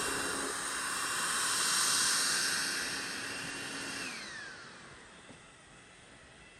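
Ionvac Optimax Laser-Optics Robovac robot vacuum running, its suction motor whirring with a steady high whine. About four seconds in, the whine slides down in pitch and the noise fades away as the motor winds down.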